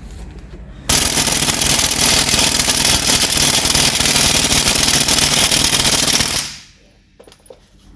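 Impact wrench hammering away at a suspension nut in a fast, continuous rattle. It starts abruptly about a second in and stops after about five and a half seconds, as the fastener holding the strut comes free.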